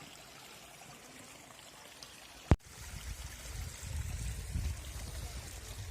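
Running water, a steady rush. About two and a half seconds in there is a single sharp click, after which a louder low rumble joins the water.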